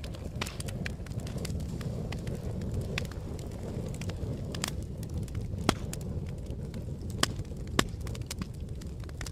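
Campfire burning with a steady low rumble and irregular sharp crackles and pops of burning wood, three louder snaps in the second half.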